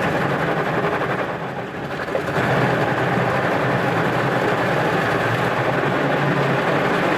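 Automatic car wash machinery running, heard from inside the car: a steady rushing, rumbling noise that dips briefly and then grows louder about two seconds in.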